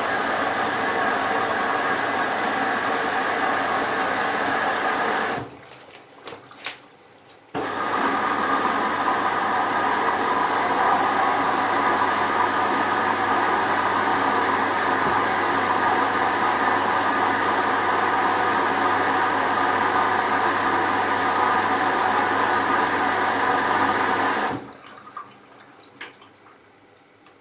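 Hoover VisionTech washing machine filling with water: a steady rush of inflowing water with a low hum. It stops abruptly about five seconds in, starts again two seconds later, and cuts off about three seconds before the end, with a few faint clicks in the pauses.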